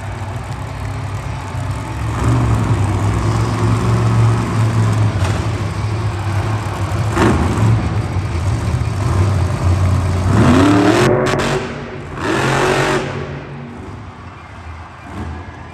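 Monster truck engine running hard, with two rising revs about ten and twelve seconds in, then fading lower near the end.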